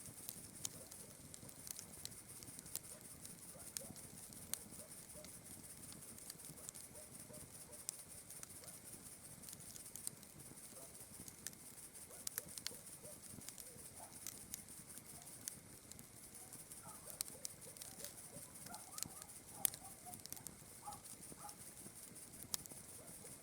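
Campfire crackling, with frequent irregular sharp pops, over a steady high-pitched hiss. A few faint short chirps come in the second half.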